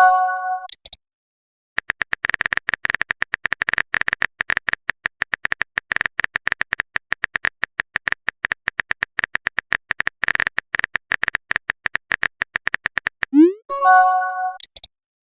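Electronic sound effects: rapid, irregular clicking over a steady high tone, then a quick rising chirp and a short chime about thirteen seconds in.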